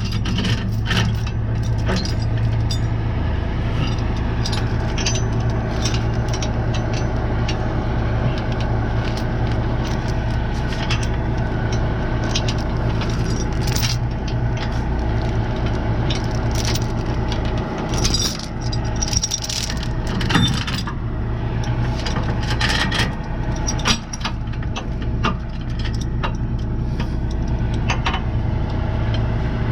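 Truck engine idling steadily, with repeated metallic clinks and clanks of tow chains being handled and hooked up.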